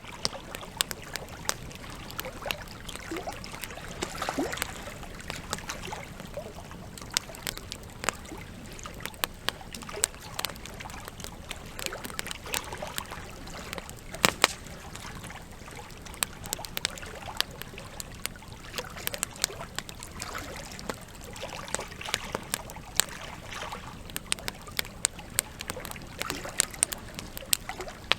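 Wood campfire burning and crackling: irregular sharp pops and snaps, several a second, over a steady rush of flame, with one louder snap about halfway through.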